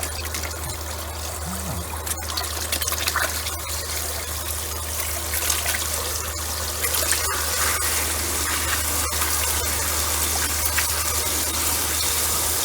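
Water running from a tap through a hose into a multi-balloon filler kit as the bunch of water balloons fills: a steady rush that grows slightly louder, with a steady low hum under it and a few faint clicks.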